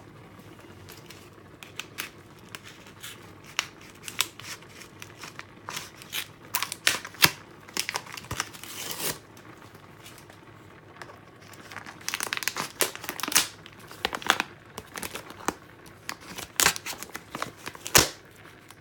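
Irregular crinkling and tearing with sharp clicks as smoked mackerel is pulled apart and cut by hand, in bursts of handling.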